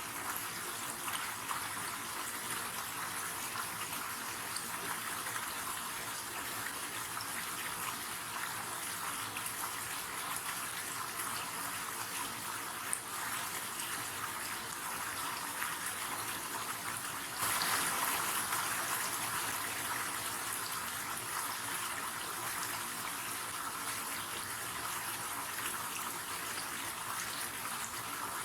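River water flowing and splashing in a steady rush. The rush steps up suddenly in loudness a little past the middle, then settles back gradually.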